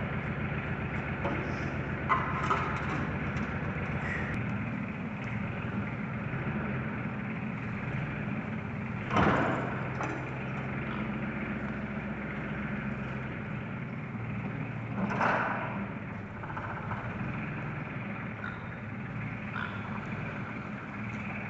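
Farm tractor engine running steadily while towing a manure spreader, with a few sharp clunks from the rig, the loudest a little under halfway through and another about two-thirds through.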